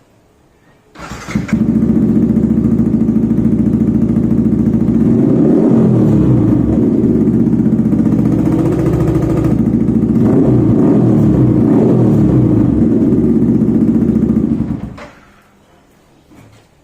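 Yamaha R15 V3 motorcycle's single-cylinder engine starting about a second in, running loudly, and revved up and down twice before being switched off near the end, likely through its newly fitted exhaust.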